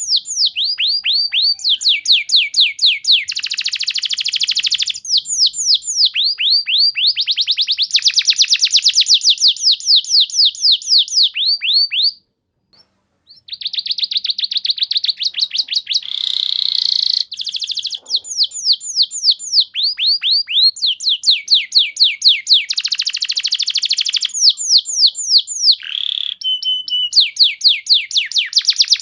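Domestic canary singing long, rapid trills of repeated downward-sweeping notes, phrase after phrase, with a brief pause about twelve seconds in.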